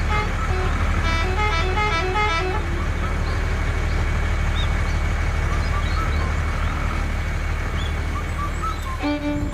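Steady low electronic engine rumble, with a short tune of stepping beeped notes over it for the first couple of seconds and faint chirps later.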